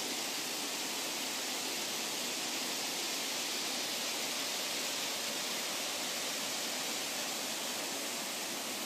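Steady rushing water, an even hiss with no breaks or distinct events.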